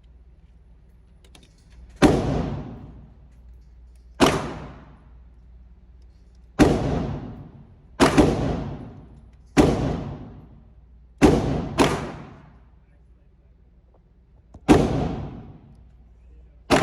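Glock 19 9mm pistol firing single shots at a slow, uneven pace: eight sharp reports, each ringing out for about a second, with two fired in quick succession midway and another just at the end.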